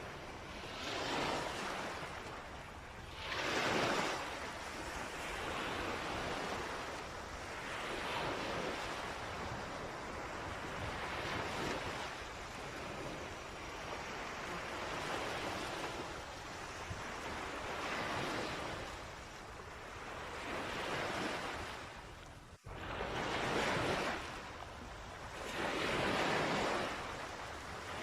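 Sea waves washing onto a beach, the surf noise swelling and falling back every three to four seconds. The sound cuts out for an instant about two-thirds of the way through.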